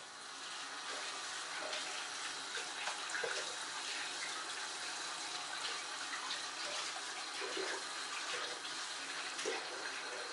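Syrniki (cottage-cheese pancakes) frying in plenty of hot oil in a pan: a steady sizzle with many small crackles and pops.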